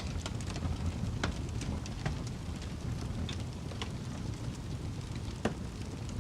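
Wood fire crackling: a steady low rumble with scattered sharp pops and snaps, the loudest snap about five and a half seconds in.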